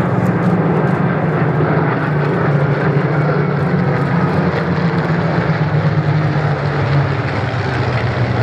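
Supermarine Spitfire piston engine running loud and steady as the aircraft flies a display pass. Its low drone drops slightly in pitch near the end.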